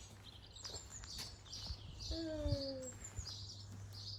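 Small garden birds chirping repeatedly in short high calls, with one lower falling call about two seconds in and a few light knocks.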